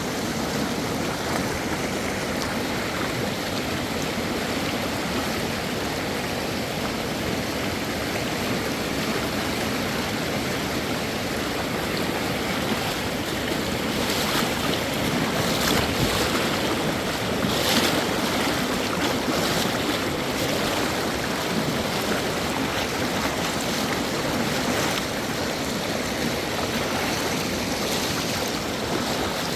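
Fast mountain river rushing with a steady, dense roar of water, with a few brief louder surges about halfway through.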